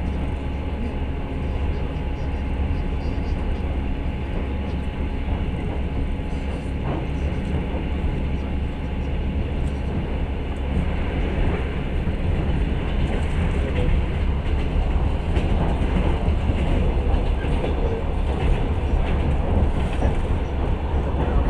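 Moving passenger train carriage heard from inside, a steady rumble of wheels on the rails with a few faint clicks from the track.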